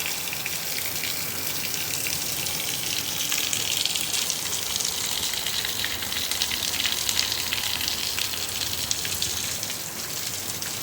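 Steady rain with rainwater running and splashing down a rain chain of small metal buckets: an even hiss, spattered with fine drips.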